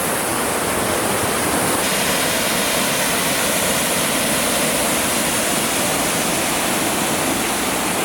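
Waterfall on a river, rushing water making a loud, steady, even noise that cuts off abruptly at the end.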